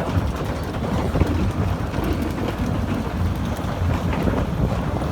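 Steady low mechanical rumble of a Mack Rides Regatta fairground ride running.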